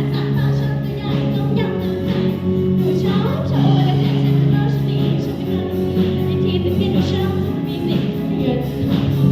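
Song from a stage musical: a girl's voice singing over a backing track of long held chords.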